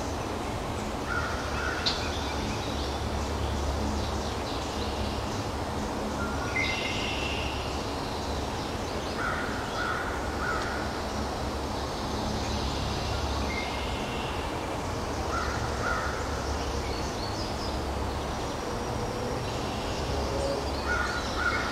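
Birds calling in woodland: short calls in quick groups of two or three repeat every few seconds, with scattered higher chirps between them, over a steady low rumble.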